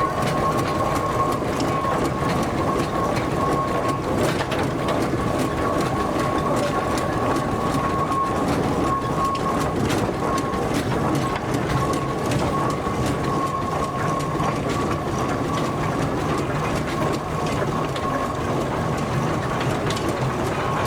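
Steam traction engine passing at parade speed: a steady mechanical clanking and rattling of gears and running gear, with a steady high ringing tone throughout.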